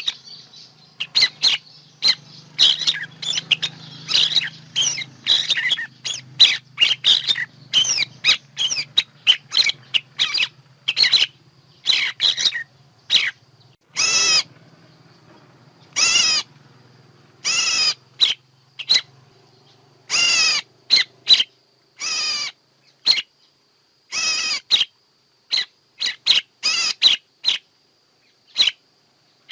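Recorded songbird calls used as a bird-trapping lure: a rapid run of short chirps and whistles, then from about halfway through fewer, longer harsh calls spaced a second or two apart. A low steady hum sits under the first two-thirds.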